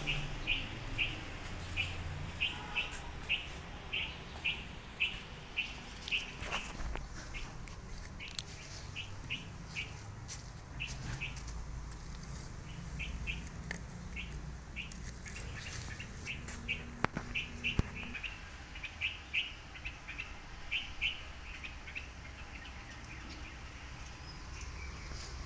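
A small bird chirping over and over: short high chirps, two or three a second, with a couple of brief pauses.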